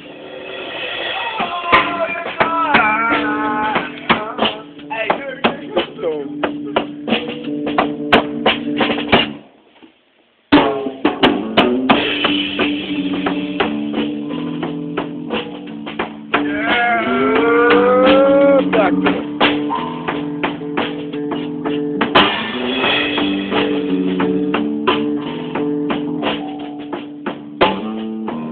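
Live band playing during a sound check: a drum kit with snare and bass drum hits over sustained chords. The music cuts out for about a second a little before ten seconds in, then starts again, and a rising slide is heard around seventeen seconds in.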